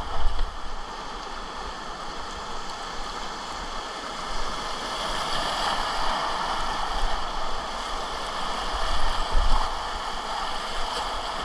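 Whitewater of a river rapid rushing steadily around a kayak, swelling a little louder midway, with low rumbling on the microphone.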